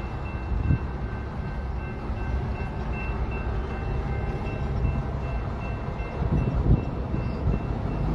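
Heavy diesel equipment running with a steady low rumble, with faint repeated beeping like a backup alarm and brief low surges about a second in and again near the end.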